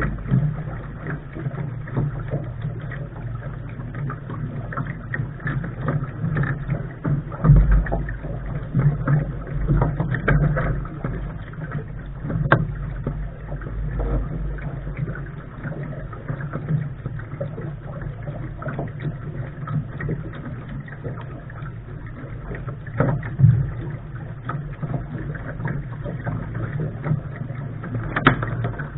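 A Lark sailing dinghy under way, heard from the bow: a steady rush of wind and water with a low rumble, broken by scattered sharp knocks.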